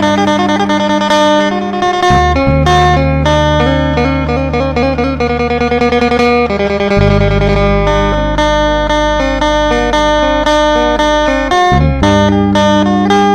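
Phin, the Isan plucked lute, playing a fast run of plucked melody notes over a sustained low bass drone that shifts to a new note about every five seconds.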